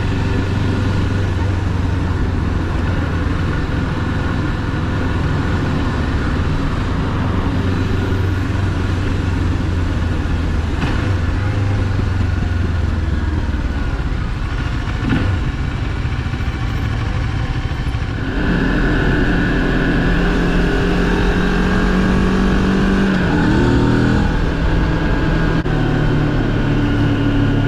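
Moto Morini X-Cape 650's parallel-twin engine running under way, heard from the rider's seat with wind and road noise. About two-thirds of the way through the sound changes abruptly to a louder, higher engine note, and near the end the pitch briefly rises and steps back down.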